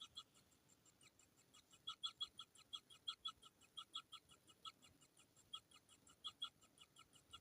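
Kingfisher nestlings' begging calls: a fast, faint string of short chirps, about five a second, growing stronger about two seconds in.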